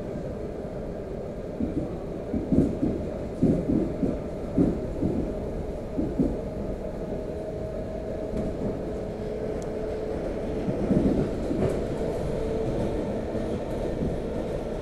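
Electric commuter train running, heard from inside the carriage: a steady low rumble with runs of clattering wheel knocks over the rail joints in the first half and again about eleven seconds in.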